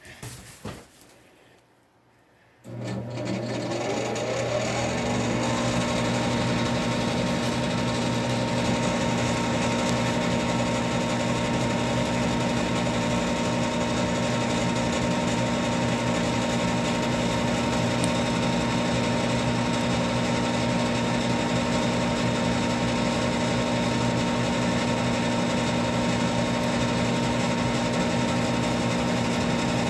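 Goodman gas furnace starting up: a few light clicks, then about two and a half seconds in its draft inducer motor switches on with a hum. Its whine rises over a few seconds as it comes up to speed, then it runs steadily.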